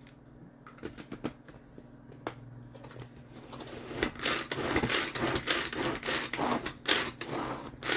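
Kitchen prep handling: a few light clicks, then from about three seconds in a dense run of irregular scraping and rustling of utensils working food.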